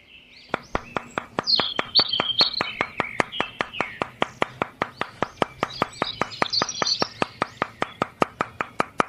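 Birds chirping over a steady, even clicking at about five clicks a second, which starts about half a second in and runs on without a break.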